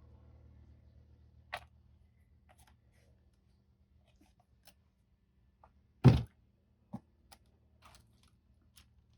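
Objects being handled: a few light clicks and knocks, one loud thunk about six seconds in and a smaller knock a second later, over a faint low hum.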